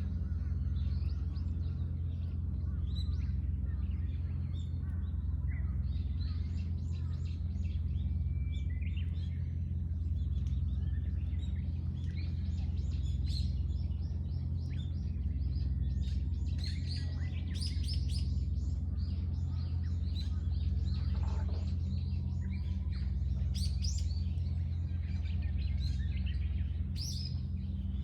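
Several songbirds chirping and singing, with short calls and trills coming and going, over a steady low hum.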